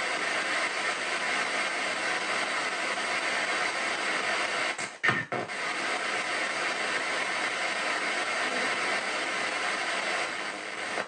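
Ghost box sweeping radio frequencies in reverse, giving a continuous hiss of static, with a brief break in the noise about five seconds in.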